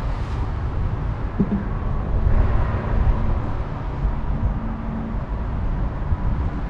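Steady low outdoor rumble, with a faint hum coming in about a second and a half in.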